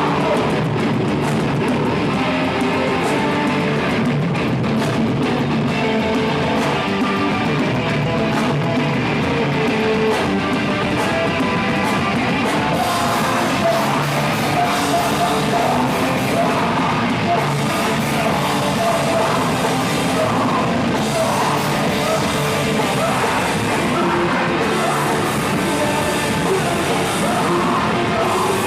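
Live heavy rock band playing loud: distorted guitars, drum kit and a singer.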